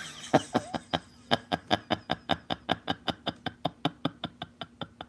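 A long run of laughter: short, quick pulses at about five a second that fade and thin out near the end.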